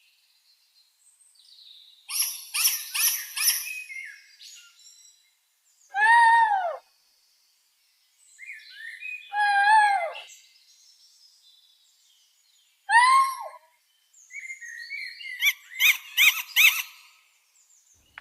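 Bird calls: three loud, single arching calls spaced about three to four seconds apart, with fast chattering trills before and after them.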